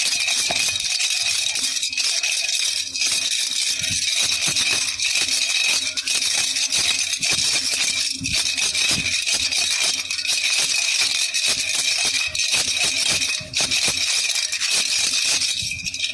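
Baby rattle (jhunjhuna) shaken continuously, a dense fast shimmering rattle of many small jingles and beads, with a brief dip in level shortly before it stops at the end.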